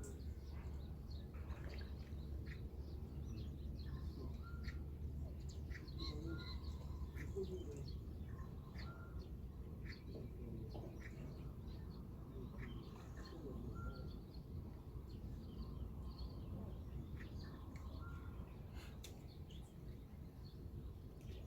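Dawn birdsong: several birds chirping, with many short calls and one call repeated every second or two, over a steady low background rumble.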